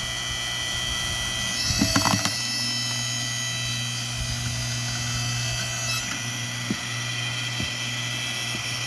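Hydraulic log splitter running with a steady motor-and-pump hum. A brief louder clatter about two seconds in, and a couple of light knocks later.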